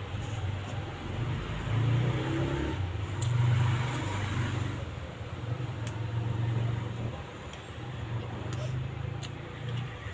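Close-up eating sounds: chewing chow mein noodles near the microphone, a low uneven mouth noise that swells and fades, with a few sharp clicks.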